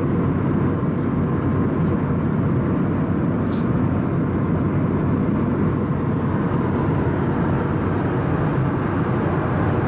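Airbus A320neo cabin noise in flight: a steady low roar of airflow and CFM LEAP-1A engines, unchanging throughout.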